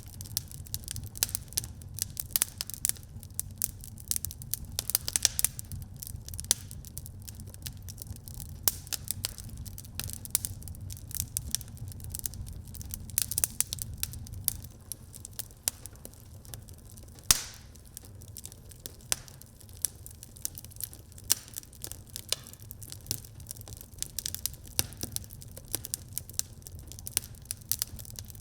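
Fire crackling in a fireplace: a dense, irregular run of small snaps and pops over a steady low rumble, with one louder pop a little past the middle.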